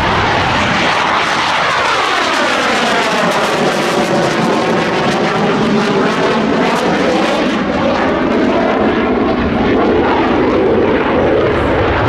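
Low, loud flyby of a Blue Angels display aircraft, its engine roar sweeping overhead with a swirling, phasing whoosh as it passes, then carrying on as it moves away.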